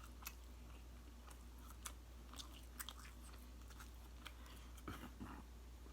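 A person chewing a mouthful of jerk chicken meal close to the microphone: faint, scattered soft clicks and smacks of the mouth, over a steady low hum.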